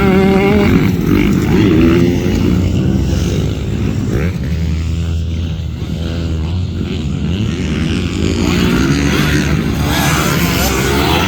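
Dirt bike engines running, with revs rising and falling in the first couple of seconds and then a steadier drone.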